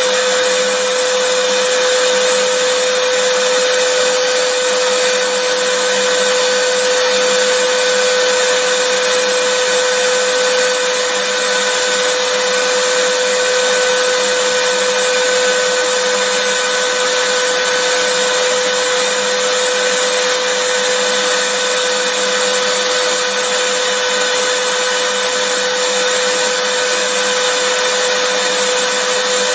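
Vacuum cleaner running continuously at a steady speed: an even, loud rushing with a constant motor whine.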